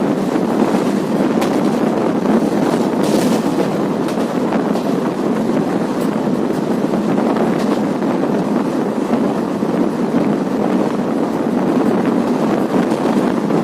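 Passenger train running at speed, heard from on board: a steady loud rush of wheels on the rails and air, with wind buffeting the microphone and a few faint clicks.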